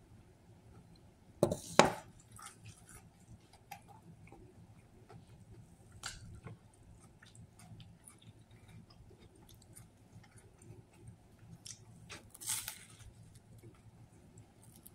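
A person biting into and chewing a sub sandwich close to the microphone: wet, squishy chewing with small clicks, and two sharper, louder bites or smacks, one about two seconds in and one near the end.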